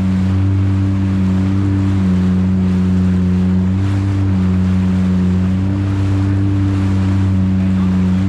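Yamaha VX jet ski engine running at a steady cruising throttle, its pitch dipping and rising slightly every second or two, over a hiss of water and wind.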